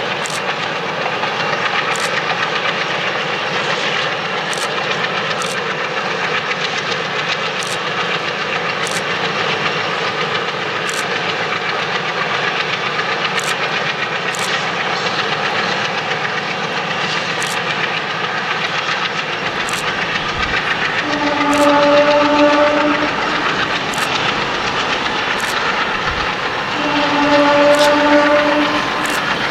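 A diesel-hauled freight train rolling past, with steady running noise and irregular clicks of wheels over rail joints. Its locomotive sounds a multi-tone horn twice near the end, each blast lasting about a second and a half to two seconds.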